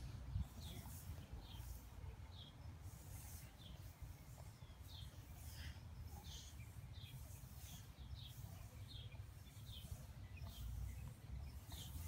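Small birds chirping in the background, a steady run of short high chirps about two a second, over a faint low rumble.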